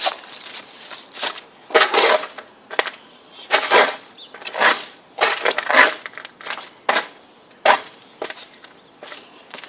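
Repeated blows smashing up a microwave oven: about a dozen separate hits at an uneven pace, roughly one a second or a little faster.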